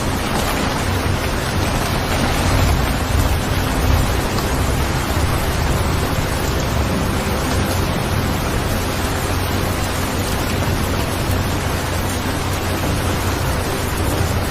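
Recorded steady rain: an even hiss of falling rain with a low rumble underneath, unchanging throughout.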